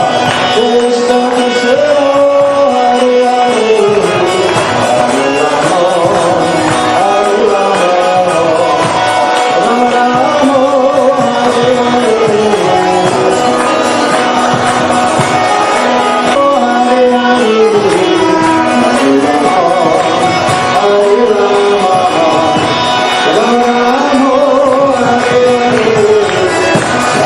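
Devotional singing with a hand drum: voices sing a melody in repeated phrases, each rising and falling over a few seconds, to steady drumming.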